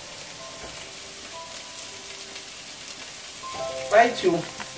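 Diced celery and onion sizzling in butter in a frying pan, a steady soft hiss, under light background music of short chiming notes. A louder voice-like phrase comes in briefly near the end.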